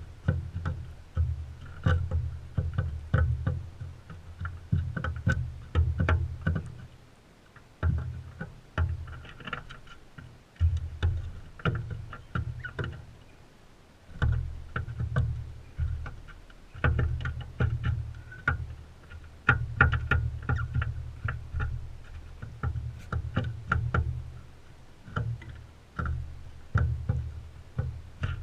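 Crimson rosellas feeding at a seed feeder close to the microphone: irregular sharp clicks and knocks of beaks and feet on the feeder, over a low rumble that comes and goes.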